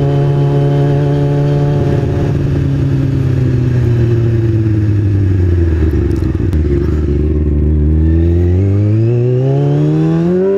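2003 Kawasaki ZX-6R 636's inline-four engine running under way: its pitch holds steady for about two seconds, sinks slowly as the bike slows, then climbs again over the last two seconds as it accelerates.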